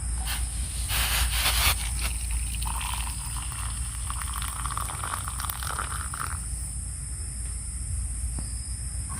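Steady high-pitched chirring of night insects, with a brief rustling scrape about a second in and a longer scraping rustle from about three to six seconds.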